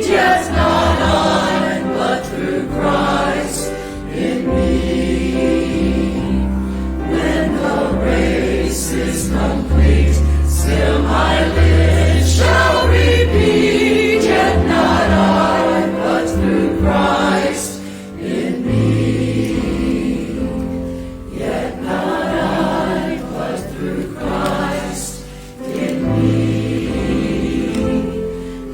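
Church choir singing a contemporary hymn arrangement in several parts, with deep held bass notes underneath.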